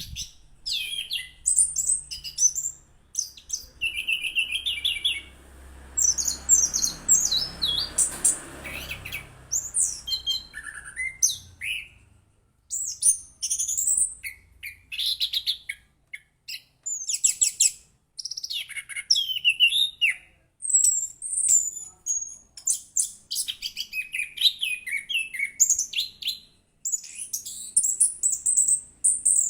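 Orange-headed thrush singing a long, varied song of rapid high whistles, trills and chirps in quick phrases, with short pauses between them.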